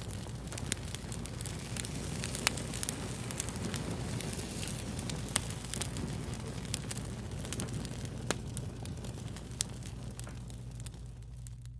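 Fire crackling, with many irregular sharp pops and snaps over a continuous hiss, and a steady low hum underneath.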